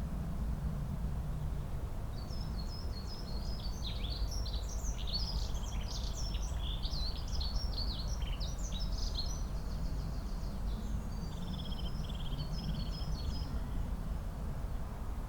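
Songbird singing outdoors: a long, quick run of varied chirps and whistles, then a faster, evenly repeated trill near the end. A steady low rumble lies underneath throughout.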